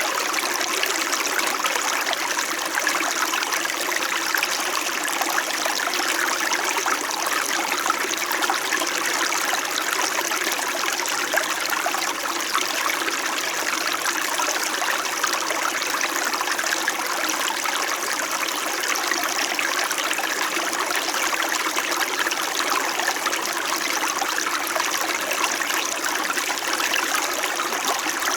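Small mountain stream in winter flowing and babbling over stones: a steady, even rush of water with a gentle trickle.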